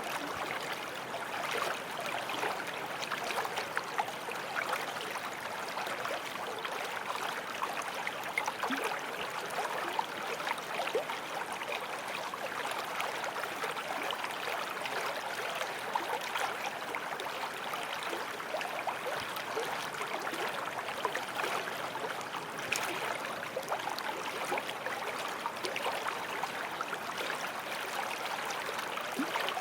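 Small forest stream flowing steadily over stones, a constant babble of water.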